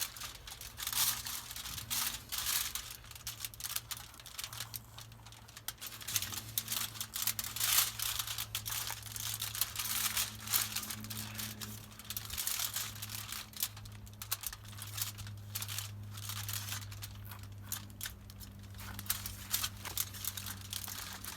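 Irregular crinkling and rustling of food and packaging being handled while stuffing chicken breasts, over a low steady hum.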